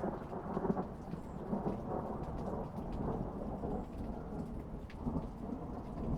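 Thunderstorm: a low, rolling rumble of thunder over steady rain, with scattered raindrop ticks.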